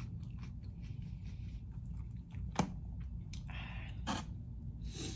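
Close-up chewing of chicken wings over a steady low hum, with a few sharp clicks and a brief rustle as a hand reaches into the foam takeout box for another wing; the loudest click comes about two and a half seconds in.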